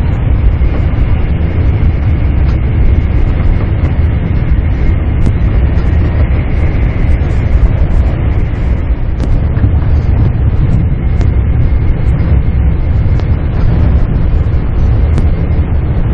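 Running noise inside the passenger cabin of a Max double-decker Shinkansen at speed: a steady, loud, deep rumble with a faint steady high tone and scattered light clicks.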